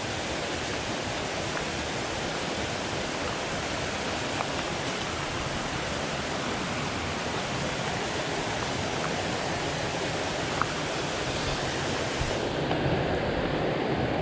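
Steady rushing noise of flowing water, with a few faint clicks. The highest part of the hiss drops away about twelve and a half seconds in.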